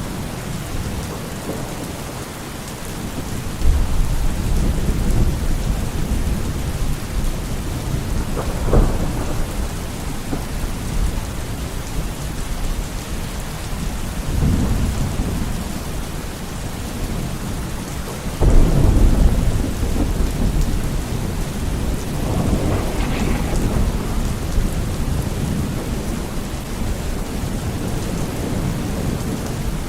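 Steady rain with rolling thunder: several deep rumbles come and go, the loudest about two-thirds of the way through, over a constant hiss of rain.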